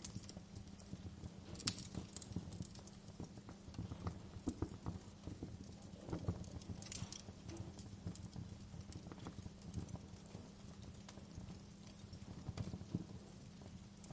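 Wood fire crackling, with irregular sharp pops and snaps at uneven intervals over a low steady hum.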